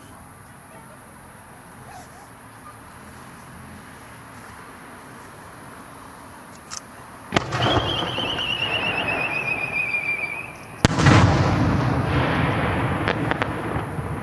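Fireworks: after a quiet stretch, a sharp bang about seven seconds in, followed by crackling and a whistle that falls slightly in pitch for about three seconds. A second loud bang comes about eleven seconds in, with crackle and rumble slowly dying away.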